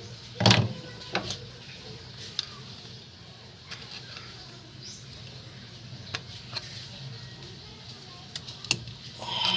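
Scattered clicks and knocks from metal engine parts and tools being handled, the loudest knock about half a second in, over a low steady hum, with a louder rattling burst near the end.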